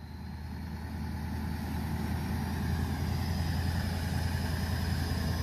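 Truck engine running steadily, a low drone that swells in over the first couple of seconds and then holds.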